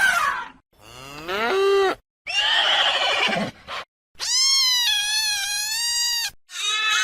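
A run of different animal calls, one after another, each lasting about one to two seconds with short silent gaps between them. The longest, near the middle, is a high, wavering call about two seconds long.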